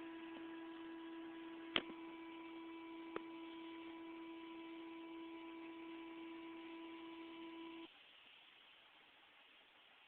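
Steady electrical hum of several fixed tones over a hiss, with two sharp clicks, cutting off suddenly about eight seconds in, leaving only faint hiss.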